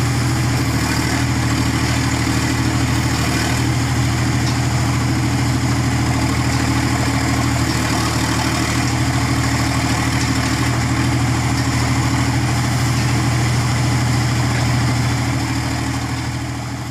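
Diesel engine of a Sonalika 47 HP tractor-mounted backhoe loader running steadily at a constant speed, fading out near the end.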